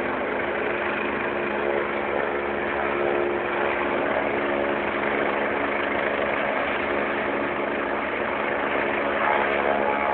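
Helicopter running at a steady pitch, a constant engine hum with several even tones and no change in level.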